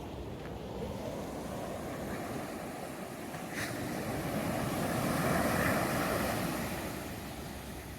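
Sea surf washing on a beach. The noisy rush swells to its loudest about five seconds in, then eases off.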